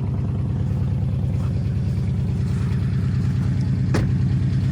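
2014 Dodge Charger R/T's 5.7-litre Hemi V8, straight-piped with no catalytic converters, idling steadily with a fast, even exhaust pulse while still warming up from a cold start. A single sharp click comes about four seconds in.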